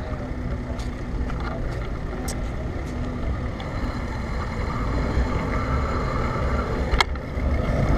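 Steady low rumble of riding a bicycle: wind and road noise from the moving ride, getting a little louder toward the end, with one sharp click about seven seconds in.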